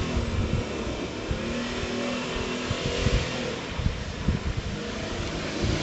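Jeep Cherokee XJ engine revving under throttle, its pitch rising and falling, with scattered knocks and thumps through the drive.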